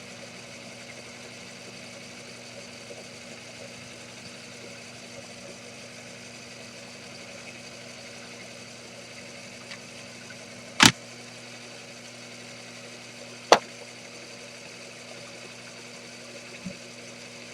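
A steady machine hum, with two sharp knocks about two and a half seconds apart, the first the louder.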